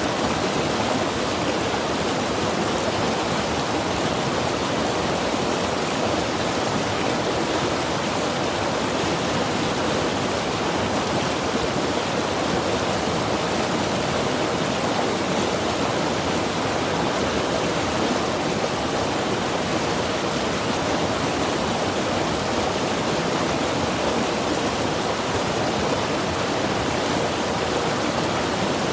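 Mountain river rushing, a steady, even wash of flowing water with no breaks or single splashes.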